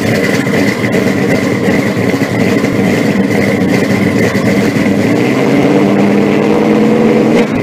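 Car engine running loudly and steadily, with a thin high whine over it.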